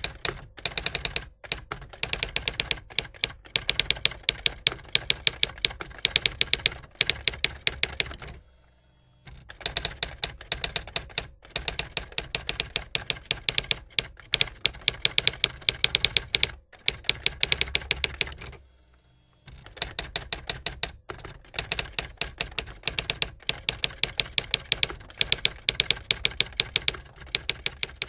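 Rapid keystroke clicks of a typewriter-style typing sound effect, running in long unbroken runs of many clicks a second and pausing briefly a few times, about eight seconds in and again around nineteen seconds.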